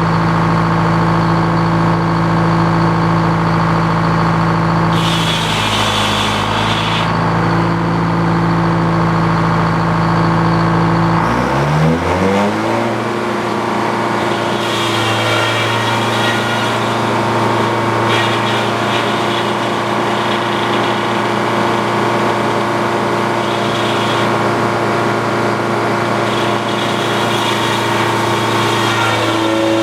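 The engine driving an antique Frick sawmill runs steadily. About twelve seconds in, its pitch rises and then holds at the higher speed.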